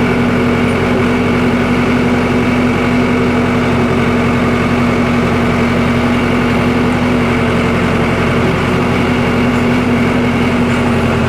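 Case 550G bulldozer's Cummins 4BT four-cylinder diesel idling steadily, just started after sitting unused for a year.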